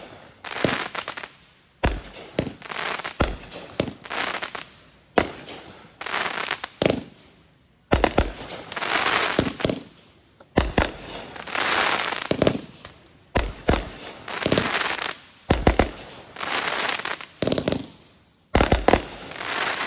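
Consumer aerial fireworks going off in quick succession: sharp bangs about every one to two seconds, each followed by a long crackling hiss as the shells break.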